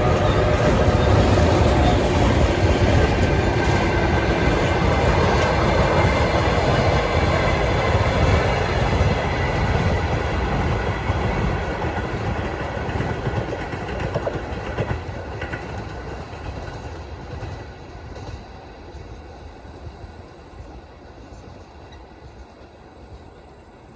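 Heavy freight train running past at speed, its wheels rumbling and clacking over the rails. The sound stays loud for the first half, then fades steadily as the train draws away.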